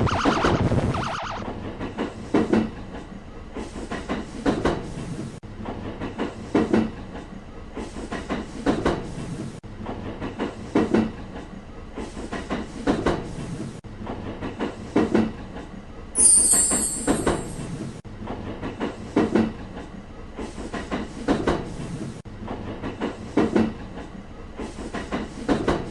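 A train passing over rail joints: the wheels clack in short pairs about every two seconds. A brief high squeal comes about two-thirds of the way through.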